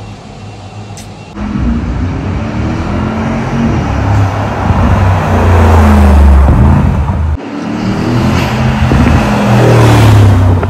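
Brabus G800's 4.0-litre twin-turbo V8 running loud and revving, its pitch and volume rising in two swells with a sudden break in between.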